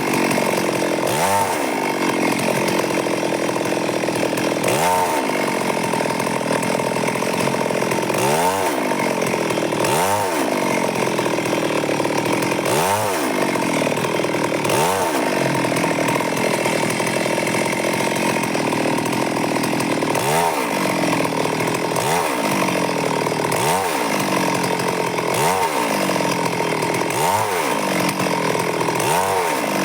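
Stihl MS 382 two-stroke chainsaw running at high revs, ripping a log into boards, its pitch swelling up and dropping back every one to two seconds as it is worked through the cut.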